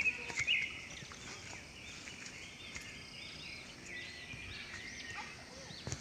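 Birds chirping in the surrounding trees and bushes: a quick run of short high notes at the start, then a busy chatter of small chirps through the middle, over steady outdoor background noise.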